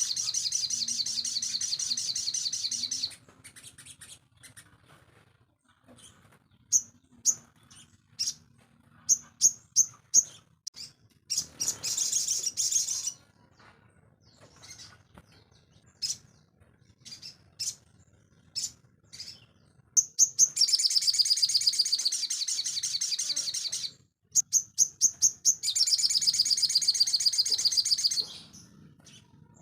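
A small songbird, the sogon, singing in long, fast, high-pitched trills of one to three seconds, each followed by strings of short, sharp single chirps.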